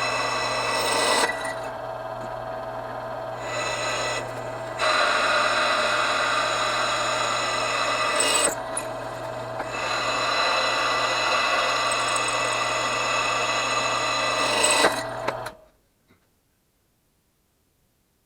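Electric drill driving a Rodman Reaper drill bit through a thick cast-iron brake rotor: a steady grinding whine of the bit cutting metal, swelling and easing several times. It stops suddenly about fifteen and a half seconds in.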